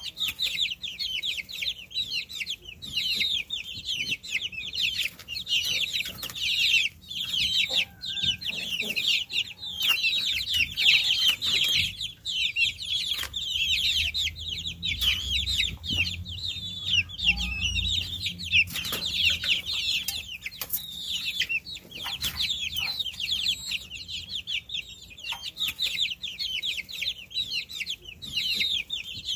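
Many baby chicks peeping, dense overlapping rapid high-pitched chirps.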